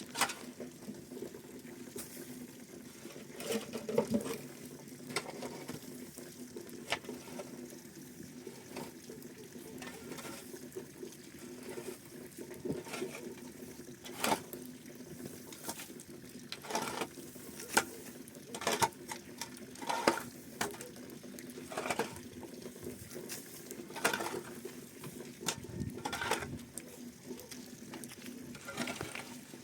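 Irregular light knocks and clicks, like household handling or clatter, over a steady low hum.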